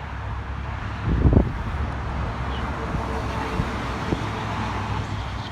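Wind buffeting the microphone, with a strong gust about a second in and smaller knocks later, over a steady road-traffic rumble.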